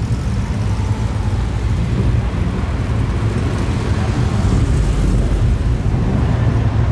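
A car engine running close by, with a deep steady rumble that grows a little louder in the second half.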